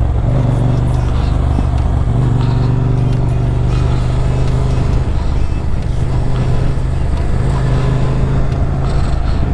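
Motorcycle engine running steadily while riding, a low, even engine note that eases a little around the middle and then picks back up.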